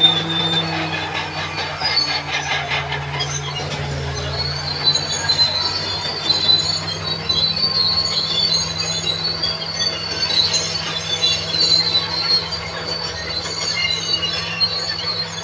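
Crawler bulldozer at work: its diesel engine running steadily under a wavering, high-pitched metal squeal from its steel tracks.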